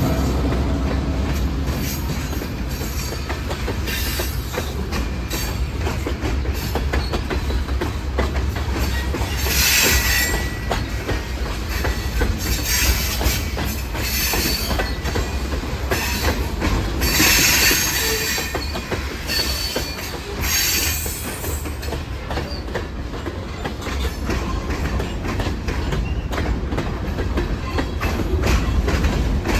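CN freight train rolling by with a steady low rumble and wheels clicking over the rail joints. Short bursts of high wheel squeal come several times near the middle.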